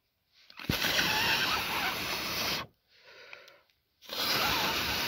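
Two long rushes of air blown onto a small fire's embers to fan them up, the second one shorter, with a quieter intake between them.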